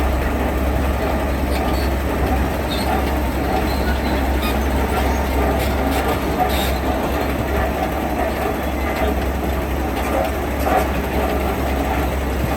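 Heavy diesel construction machinery running steadily: a continuous low rumble with a busy mechanical rattle over it.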